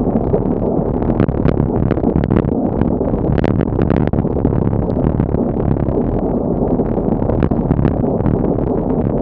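Strong wind buffeting the microphone in a steady, loud rumble, with scattered short ticks on top.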